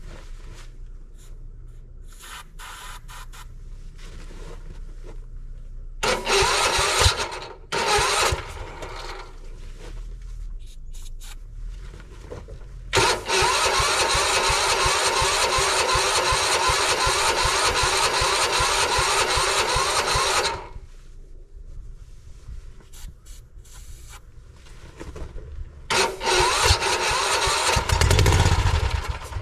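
Weedeater lawn tractor's electric starter cranking the cold engine on starting fluid in several tries: two short bursts about six and eight seconds in, a long crank of about seven seconds, then another near the end. The engine does not catch.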